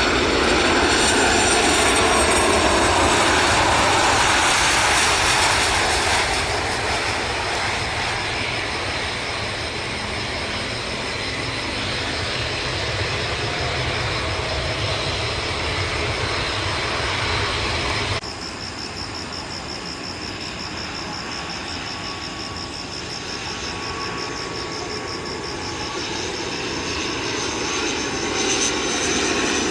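Boeing 737-800 jet engines on landing, loudest in the first few seconds and then easing off. About 18 seconds in, the sound cuts to an ATR 72-500 turboprop on approach, its engines and propellers giving a steady high whine that grows louder near the end.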